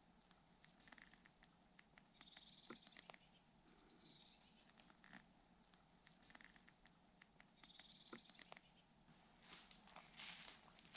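Faint woodland ambience with a bird calling twice, each call a short run of high notes falling in pitch. Near the end, footsteps crunching through dry fallen leaves.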